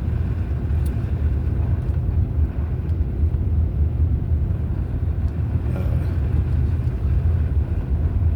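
Steady low rumble of a moving vehicle's engine and road noise, heard from inside the cabin while driving.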